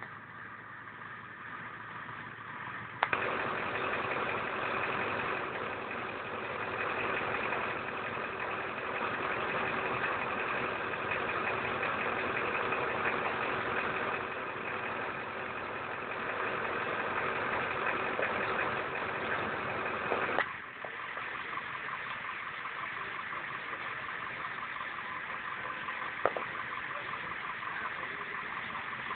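Steady running of a motor vehicle's engine with traffic noise. It gets suddenly louder about three seconds in, holds a steady hum, and drops back abruptly about twenty seconds in.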